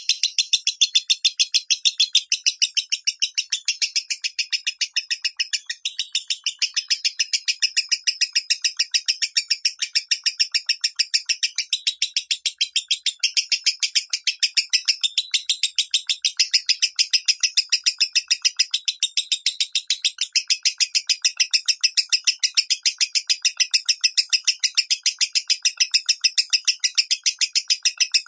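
A lovebird chattering in a long unbroken run of quick, high, evenly repeated chirps, about three a second. This is the 'minor' voice that Indonesian keepers play to train their own lovebirds.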